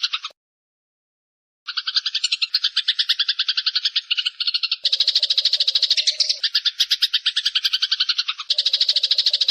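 Eurasian tree sparrow chattering, a loud rapid run of chirps that cuts out completely for about a second near the start and then resumes, busier and layered.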